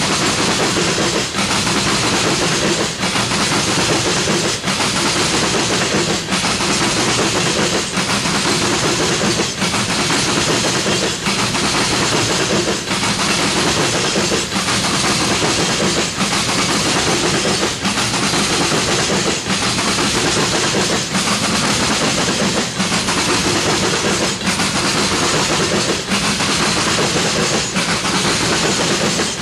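Tank cars of a freight oil train rolling steadily past on steel rails: a loud, continuous rumble and rush of wheels on track, with a regular clack about every second and a half.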